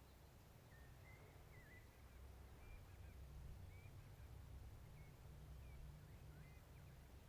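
Near silence with faint, short bird chirps scattered through it, over a low steady rumble.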